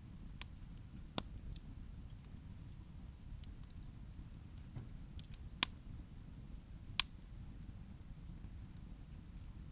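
Wood fire burning with a few sharp, scattered pops and crackles, the two loudest about five and a half and seven seconds in, over a low steady rumble.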